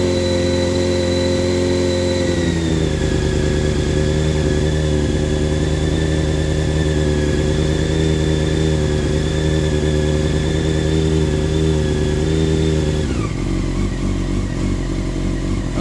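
2000 Honda CBR600 F4's carbureted inline-four idling steadily from a cold start; the idle speed steps down about two and a half seconds in and again near the end. A cold-start idle that the owner credits to Berryman carb cleaner clearing out partially clogged carburetors.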